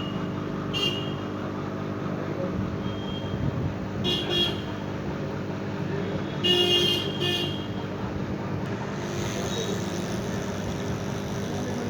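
Street traffic with several short vehicle horn toots, over a steady hum.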